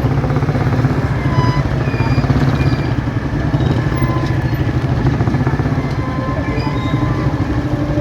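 Motorcycle engine running steadily on the move, with scattered short high-pitched tones over it.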